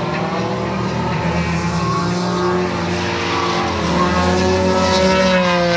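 Car engine revving hard on track, rising and falling in pitch, with tyre squeal as in drifting. It grows louder in the second half.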